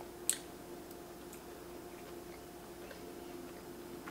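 Close-up eating sounds of a cake donut being chewed: soft scattered mouth clicks, with one sharp lip smack from licking a finger about a third of a second in. A faint steady hum runs underneath.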